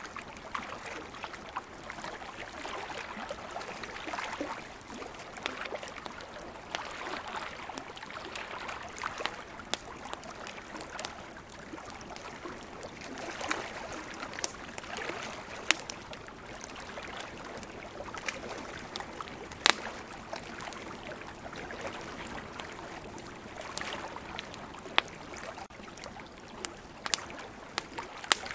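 Campfire crackling, with scattered sharp pops from the burning wood, over a steady wash of ocean surf that swells and eases every few seconds.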